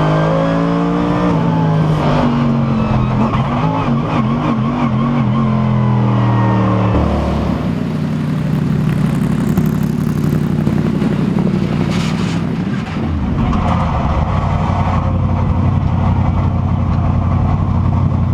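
Mercedes SLS AMG GT3's naturally aspirated V8 heard from inside the car, its revs falling and wavering in the first seconds, then running steadily at low revs.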